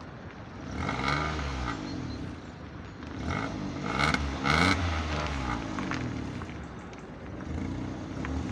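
Citroën C1 1.0-litre three-cylinder VVT-i petrol engine on its stock exhaust, revved several times from idle, the pitch climbing and falling back with each blip.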